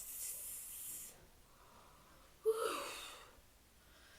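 A woman's long hissing "sss", the letter S sound imitating a snake slithering away, lasting about a second. About two and a half seconds in comes a short breathy vocal sound, like a gasp.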